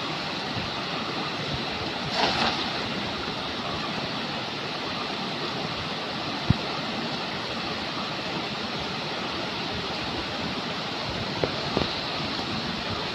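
Steady rushing of a forest stream's flowing water, with a short louder rush about two seconds in and a few sharp knocks, one past the middle and two close together near the end.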